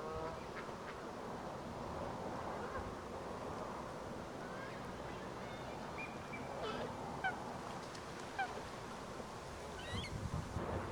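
Park waterfowl calling: scattered short calls over steady background noise, with a pitched call at the start and a quick run of high calls near the end.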